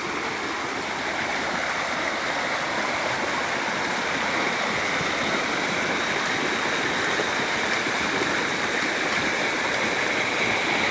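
River water rushing steadily, a continuous broad rush without breaks.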